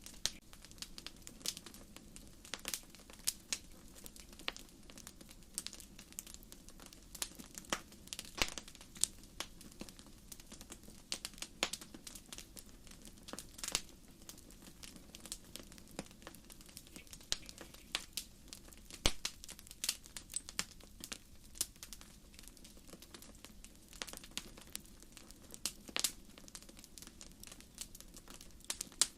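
Wood fire crackling: firewood snapping and popping at irregular moments, a few pops much louder than the rest, over a faint steady low background.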